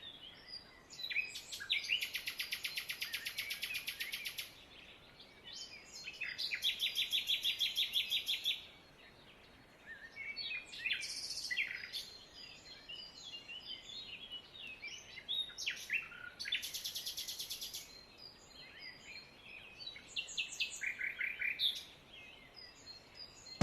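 Small birds chirping, with several long, fast trills of two to three seconds each.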